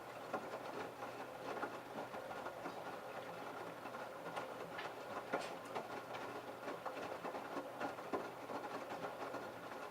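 LG F1222TD direct-drive washing machine drum tumbling a wet load during the prewash: water sloshing with irregular clicks and knocks from the clothes, stopping suddenly near the end.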